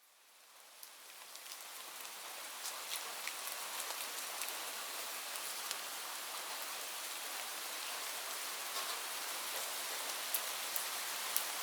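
Steady rain falling, a dense hiss with sharp individual drops ticking through it. It fades in from silence over the first couple of seconds.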